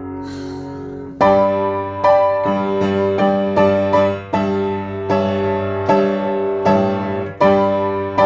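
Solo piano playing: a held chord dies away, then about a second in a new phrase begins with firmly struck chords, each one ringing on into the next.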